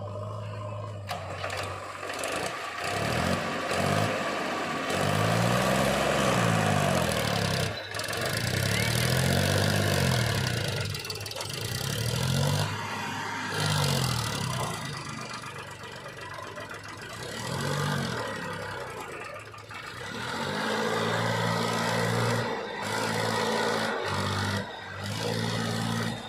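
Heavy-equipment diesel engine revving up and down over and over, each swell rising and falling within a second or two. It settles to a steadier, lower running near the end.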